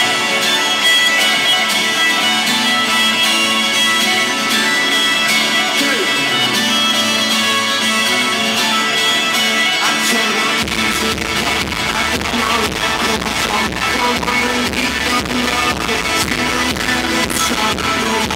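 Live rock band playing an instrumental passage: guitars strumming over a steady drum beat. A deep bass joins about ten seconds in.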